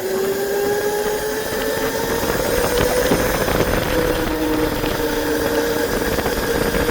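A ridden motorbike's motor running under way, a steady whine that climbs slightly in pitch over the first couple of seconds and then holds, with wind rumble on the microphone.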